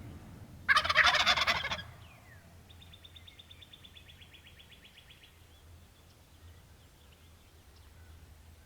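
A wild turkey gobbles once, loud and close, a rattling call about a second long. Shortly after, a thin, fast, high-pitched trill from a small bird runs for a couple of seconds.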